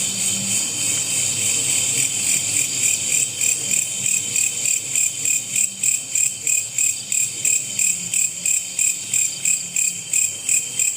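Loud insect chorus, cricket-like: a steady high-pitched ringing that from about two seconds in pulses about three to four times a second.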